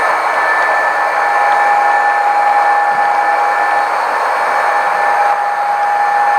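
Model train running on the layout: a steady whirring of its small electric motor with a constant high whine.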